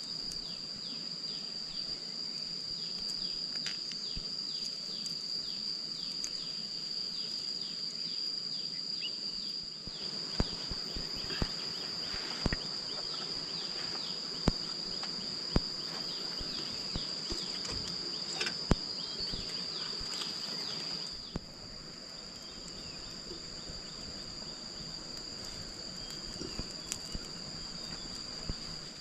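Insects droning steadily at a high pitch in the forest. In the middle stretch there is a scatter of sharp clicks and knocks.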